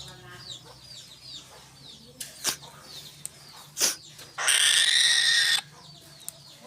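Birds calling: faint high chirps throughout, two sharp clicks in the middle, then a loud harsh screech lasting about a second.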